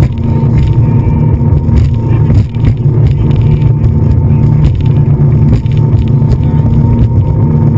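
A motor running with a loud, steady low rumble and a thin steady whine above it, with a few light knocks.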